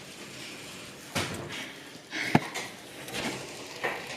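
Household handling noises: a few knocks and clunks of things being moved and put away, with one sharp click in the middle.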